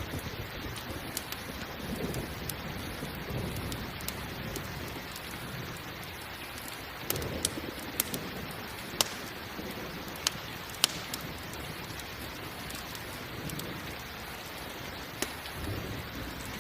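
Steady rain mixed with a crackling campfire, with a cluster of sharp pops from the fire about halfway through.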